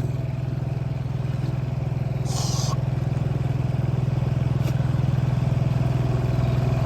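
7 hp four-stroke outboard motor running steadily at an even pitch, pushing the boat along, with a brief noisy hiss about two seconds in.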